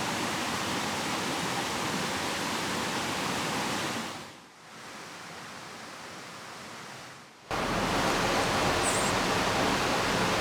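Steady rushing of a river and rain. About four seconds in it fades down to a much quieter rush, and some three seconds later it cuts back in abruptly, a little louder than before: an edited transition between ambience recordings.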